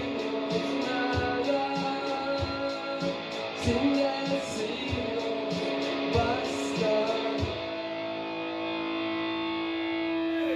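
A live rock song ending, with guitar over a steady beat. About seven and a half seconds in the beat stops and a final guitar chord is left ringing.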